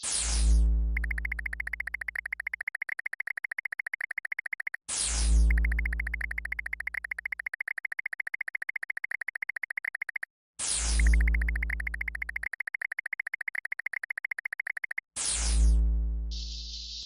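Synthesized electronic sound effect, played four times about five seconds apart. Each time a loud falling zap with a deep boom is followed by a fast pulsing buzz that cuts off suddenly.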